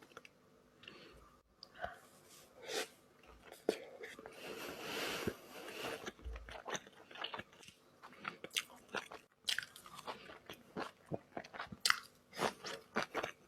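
Close-miked eating sounds of someone chewing and biting sushi: a run of short, wet mouth clicks and smacks, denser about four to six seconds in.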